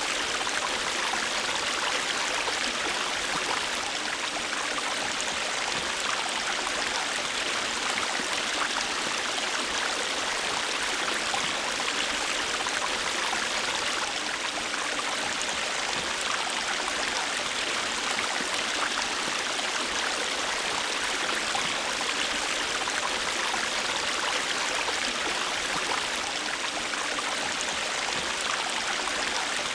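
River water flowing and rushing steadily over rocks, an even hiss without pauses or changes.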